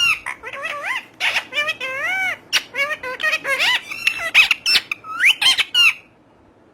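Talking parrot chattering: a rapid run of short squawks and whistled calls that glide up and down in pitch, some of them speech-like, stopping abruptly near the end.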